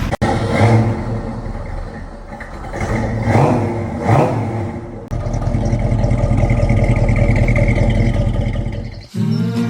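Motor vehicle engine running, with the pitch swelling up and back down twice around the middle as it revs. The sound cuts abruptly a few times, and acoustic guitar music starts near the end.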